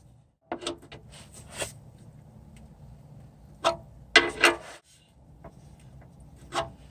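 Several sharp clicks and knocks from hand tools and parts being handled, the loudest a quick cluster about four seconds in.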